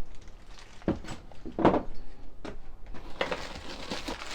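Kit parts being handled: two knocks about one and nearly two seconds in, a few light clicks, then plastic packaging crinkling from about three seconds in.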